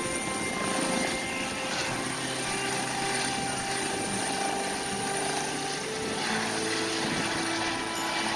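Medevac helicopter taking off: its turbine engines and rotor run steadily, with a constant high turbine whine.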